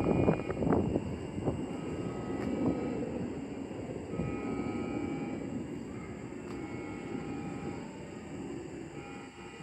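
Hankyu 8000/7000 series electric train moving slowly at low speed. The wheels knock sharply a few times in the first second and a half over a low rumble, and faint whining tones come and go.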